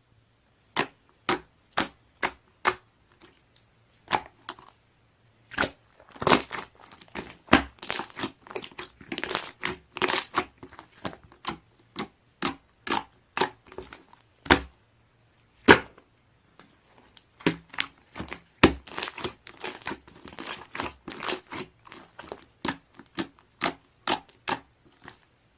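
Slime being squeezed and poked by hand, giving an irregular run of sharp clicks, pops and crackles, several a second with short pauses.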